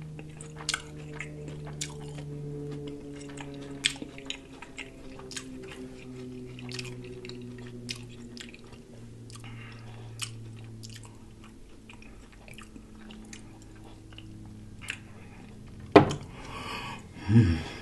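Close-miked chewing of crispy fried food, with many short crunchy mouth clicks, over a low hum that slowly drops in pitch. A sharp knock sounds near the end.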